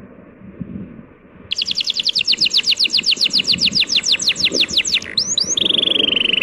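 A songbird sings a fast trill of downward-sweeping chirps, about eight a second, starting about a second and a half in. It ends with a few slurred notes and a long, slightly falling whistle. Under it runs a steady low rush of sea waves.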